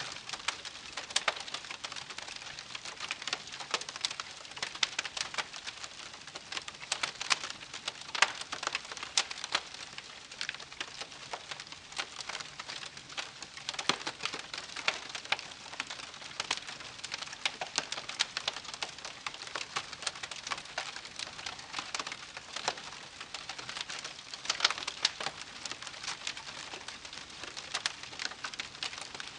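Wood campfire crackling: a steady soft hiss with many irregular sharp pops and snaps throughout.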